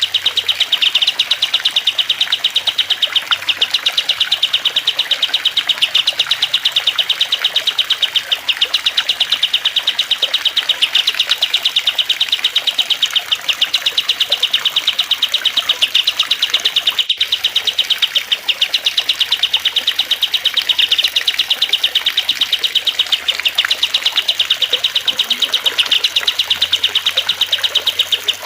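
Songbird recording for training cage birds: cililin, kastem and lovebird songs mixed over trickling water, heard as a fast, unbroken stream of rapidly repeated high chirps over a steady hiss. A single sharp click about seventeen seconds in.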